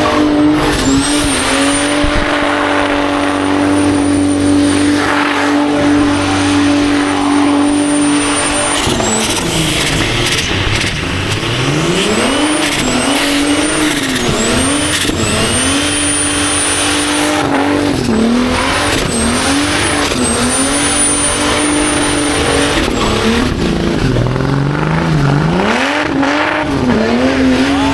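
A car engine doing a burnout, held at steady high revs for the first several seconds, then revved up and down over and over. A thin high squeal keeps coming and going above it.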